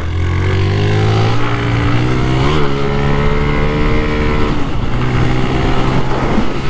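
Honda CG 160 Start's single-cylinder engine pulling under throttle, its pitch climbing steadily for about four seconds, then easing off and running steadier near the end, with wind rushing past.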